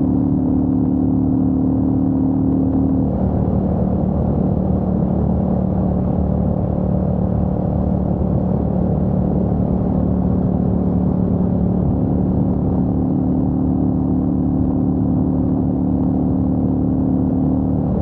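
Royal Enfield Meteor 350's single-cylinder engine running steadily under way. Its note dips slightly about three seconds in, then holds even.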